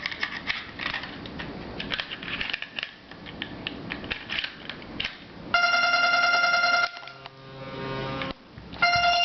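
Small metal clicks and knocks of Glock 27 pistol parts being handled as the slide and recoil spring are fitted. A loud, steady pitched tone then sounds twice, each time for about a second and a half.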